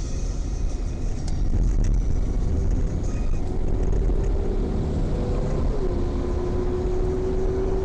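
Car driving, heard from inside the cabin: a steady low rumble of engine and road, with a steady whine coming in about three seconds in and dropping slightly in pitch a couple of seconds later.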